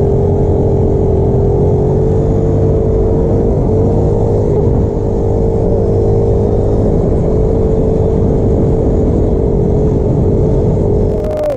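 Small single-cylinder bike engine running under load at a steady speed while riding, its pitch holding nearly constant.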